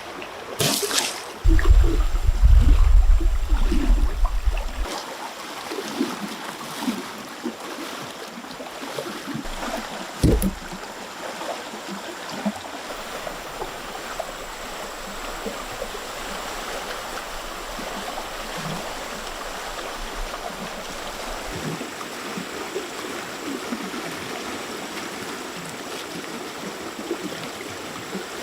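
Water running in a stream as a steady hiss, with a low rumble in the first few seconds and a couple of sharp knocks.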